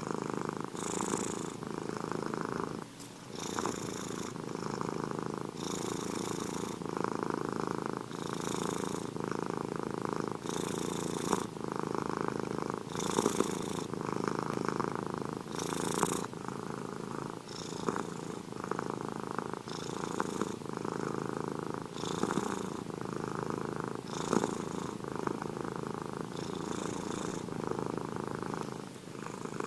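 Domestic cat purring continuously, the purr swelling and easing in a steady cycle of about one every two seconds as the cat breathes in and out.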